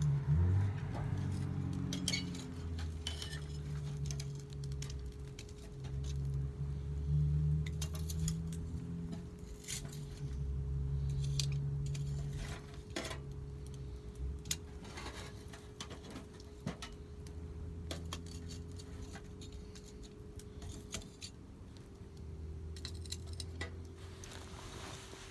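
Wood fire burning in a fire pit, crackling with irregular sharp pops and snaps, over an on-and-off low rumble and a faint steady hum.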